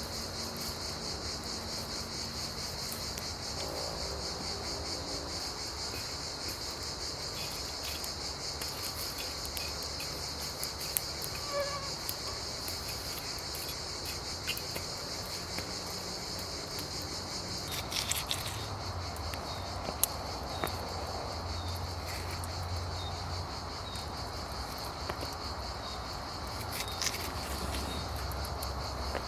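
Crickets chirping in a steady, fast-pulsing chorus that drops off sharply about two-thirds of the way through. Scattered small clicks and knocks are heard throughout.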